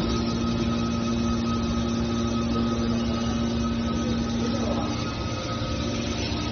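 Hydraulic scrap car baler's power unit running steadily, a constant machine hum with a steady whine. About five seconds in, the low hum drops away and the level dips slightly.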